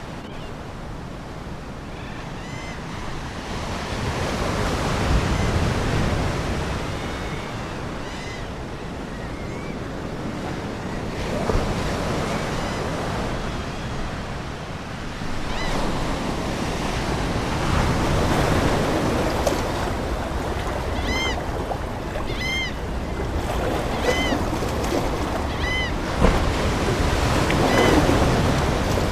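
Ocean waves breaking and washing ashore, swelling and ebbing every few seconds, with seagulls giving a string of short repeated cries in the second half.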